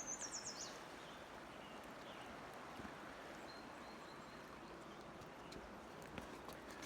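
Faint, steady rush of flowing water, with a short, quick, falling high-pitched bird trill at the very start.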